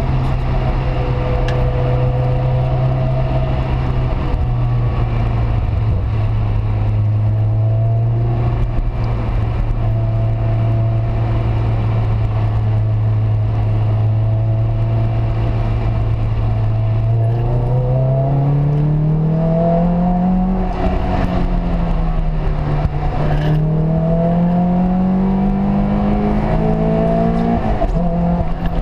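Peugeot 206 RC's 2.0-litre four-cylinder engine running at steady revs, then accelerating hard about two-thirds of the way in. The revs climb, fall at a gear change, and climb again before dropping at another shift near the end.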